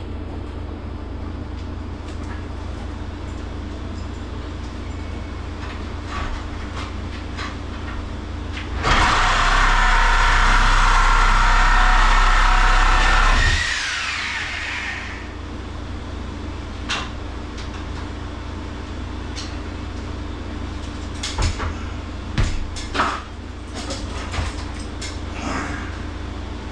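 An angle grinder runs on metal for about four and a half seconds, then winds down with a falling whine. Over a steady low hum, a few sharp knocks come near the end.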